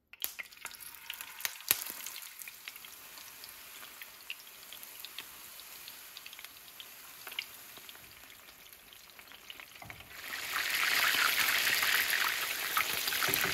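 Beef seekh kababs shallow-frying in oil in a frying pan: a light crackle with scattered pops, rising to a loud, steady sizzle about ten seconds in.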